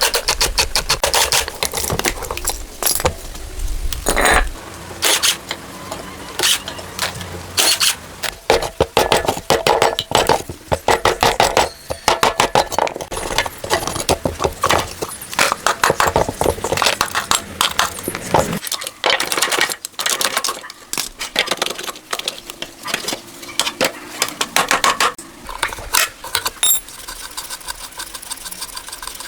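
Hand tools and metal engine parts clinking, tapping and scraping in quick, irregular strokes, some with a short metallic ring.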